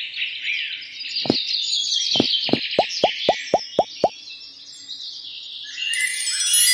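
A run of short plops, each rising quickly in pitch: one about a second in, then eight in a row at about four a second, over a steady bed of bird chirping. A tinkling musical sound comes in near the end.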